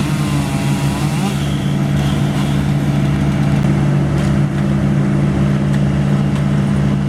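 Large engine of tree-removal equipment running steadily at a constant speed, with a strong low hum.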